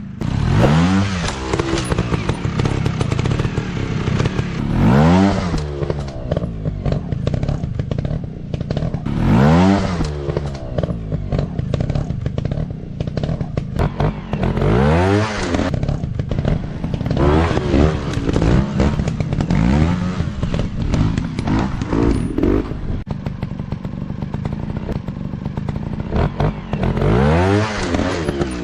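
Dirt bike engine revved repeatedly off-road, the pitch rising and falling with each burst of throttle, about seven or eight times, over a steady running drone.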